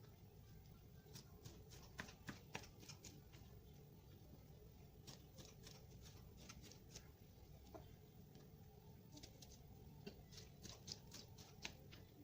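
Faint sharp taps in three short runs, a knife chopping vegetables on a cutting board.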